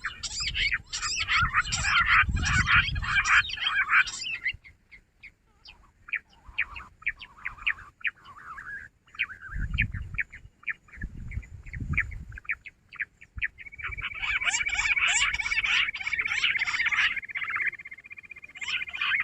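Jungle bush quail calling: a dense chorus of rapid, high chirping notes for about four seconds, then scattered single chirps. From about fourteen seconds in the chorus resumes, with a steady high whistle held beneath it.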